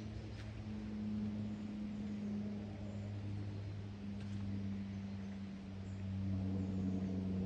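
A low, steady engine-like hum whose pitch wavers slowly, with a few faint, short, high bird chirps over it.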